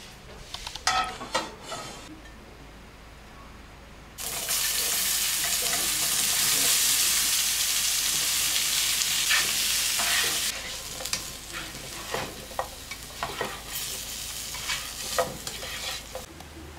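A few handling clicks and rustles, then potato cubes tipped into a hot nonstick frying pan: a loud sizzle starts suddenly about four seconds in and eases after about six seconds into a quieter sizzle. Through the quieter part a spatula scrapes and taps the pan as the potatoes are stirred.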